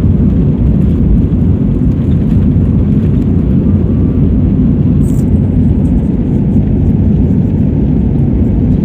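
Steady, loud rumble of an airliner's jet engines and airframe during takeoff, heard inside the passenger cabin.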